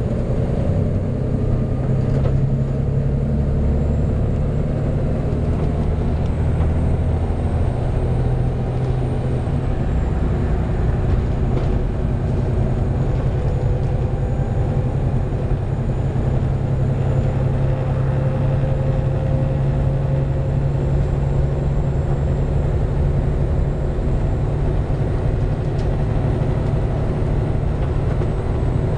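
Volvo B7TL double-decker bus with a six-cylinder diesel, heard from inside as it runs along the road: a steady low engine drone with a faint high whine above it.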